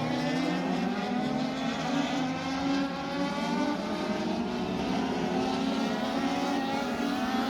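INEX Legends race car engine running hard at high revs on track, its pitch climbing and easing back again and again.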